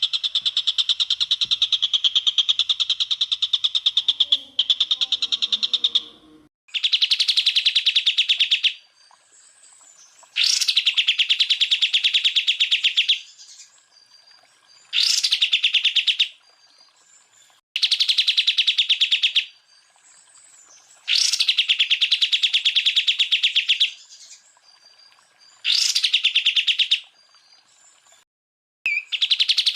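Recorded song of a cucak ijo (green leafbird): fast buzzing trills of rapidly repeated high notes, the 'tembakan' rapid-fire phrases. One long trill runs for about six seconds, then about six shorter bursts of one to three seconds follow, several opening with a sharp rising whistle, with brief pauses between them.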